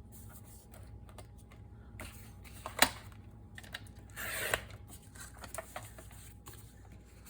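Card stock being handled and cut on a paper trimmer: scattered small clicks and taps, one sharp click a little before three seconds in, and a short swish a little after four seconds.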